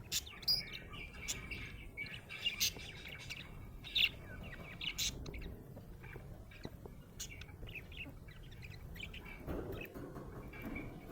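Budgerigar chirping: many quick, sharp chirps and short warbling runs in irregular bursts.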